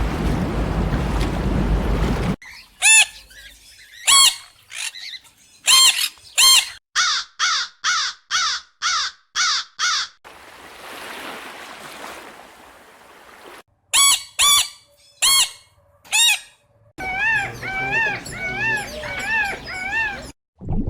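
Bouts of loud, harsh bird calls: short calls given in quick runs, including a burst of about eight calls at roughly two to three a second. Near the end a different series of repeated rising-and-falling notes follows.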